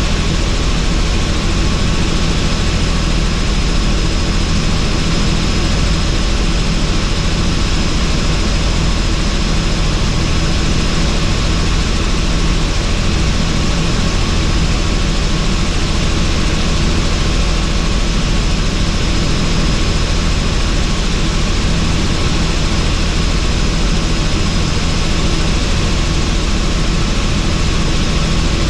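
Helicopter in flight with the doors off, heard from the cabin: steady engine and rotor noise mixed with rushing wind, with a thin high whine held throughout.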